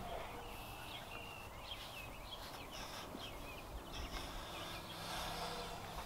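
Quiet outdoor ambience: faint, scattered bird chirps over a low steady rumble.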